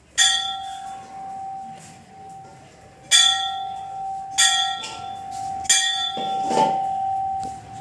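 Brass temple bell struck four times at uneven intervals, each strike ringing on in one long, steady tone that overlaps the next.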